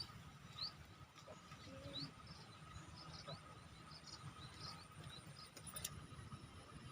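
Small bird chirping repeatedly, short high rising chirps about once a second, over faint steady outdoor background noise.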